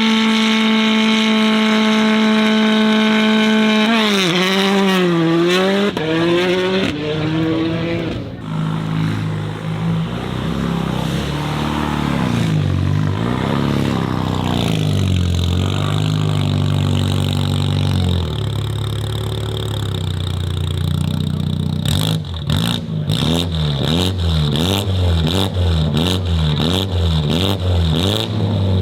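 High-performance car engines revving hard. First a high, held engine note, then the pitch drops and climbs several times through gear changes. A lower-pitched engine note follows. Near the end comes rapid repeated blipping of the throttle, with sharp crackles and pops.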